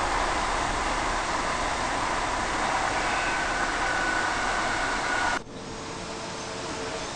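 Inside a moving electric suburban train carriage: a steady rush of rolling and running noise with faint whining tones. About five seconds in, it drops abruptly to a quieter, steady hum with one low tone.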